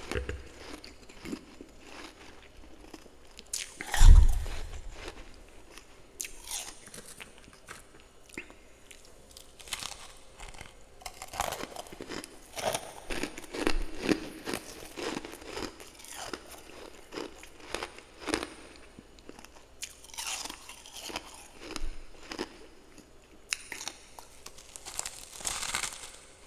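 A person biting and chewing mouthfuls of powdery freezer frost close to the microphone: a steady run of crisp crunches, with a loud thump about four seconds in.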